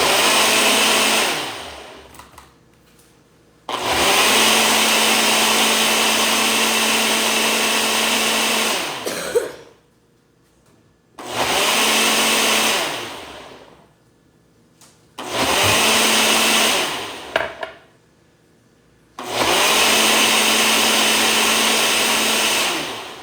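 Blender run in five bursts, the longest about five seconds, each one ending with the motor winding down, as it blends frozen strawberries, ice and yogurt into a smoothie.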